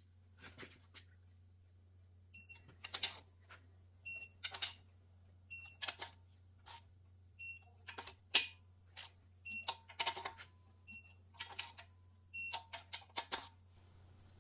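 A series of short, high electronic beeps, roughly one every one to two seconds, mixed with sharp metallic clicks and clinks from hand tools working on the engine's head nuts.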